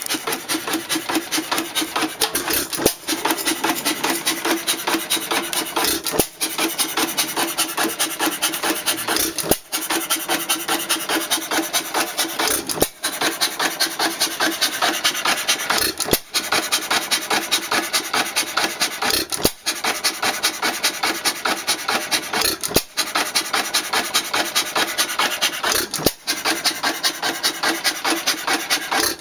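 1917 Empire 2½ hp hit-and-miss engine running: a steady, rapid, rasping clatter with a short break about every three seconds.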